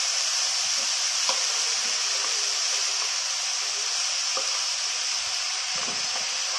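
Chopped radish leaves and grated white radish sizzling steadily in oil in a non-stick frying pan as a spatula stirs them, with a few light scrapes and taps of the spatula against the pan.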